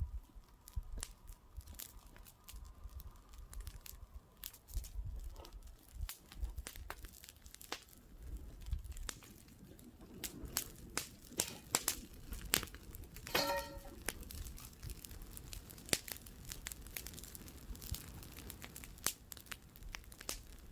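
Wood bonfire burning and crackling, with frequent sharp pops and snaps over a low rumble. About thirteen seconds in there is a brief whistle-like tone.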